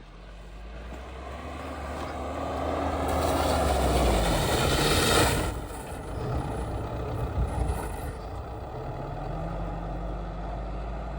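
A motor vehicle driving past. Its engine and tyre noise grows louder to a peak about five seconds in, where the engine note drops in pitch, then fades. A steadier engine note with a low rumble follows.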